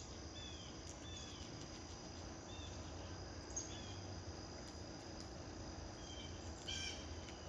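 A steady high insect trill, with small birds giving short chirps now and then and a louder burst of chirping about seven seconds in.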